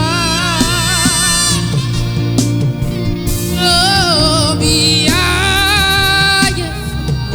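Gospel worship music: a solo voice sings long wavering phrases with vibrato, in three phrases, over steady instrumental accompaniment.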